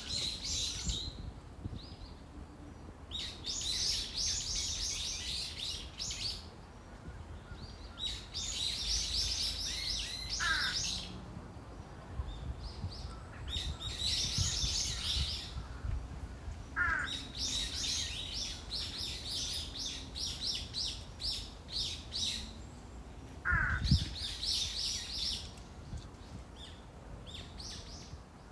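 Birds singing: bursts of rapid high notes every few seconds, each a second or two long, with three short falling calls in between and a low rumble underneath.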